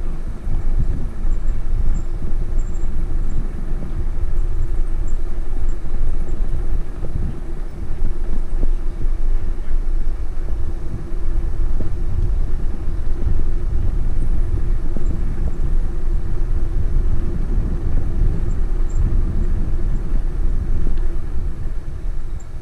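Wind rumbling on the microphone and tyre noise from a bicycle being ridden, a steady low roar with a faint constant hum.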